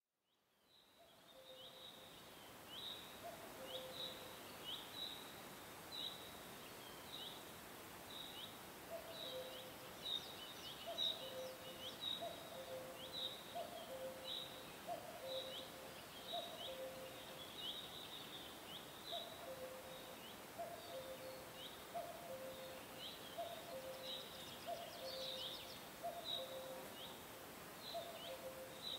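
Birds calling over a steady hiss: short high chirps about once or twice a second, and a lower two-note call, higher note then lower, repeated every second or so. The sound fades in over the first two seconds.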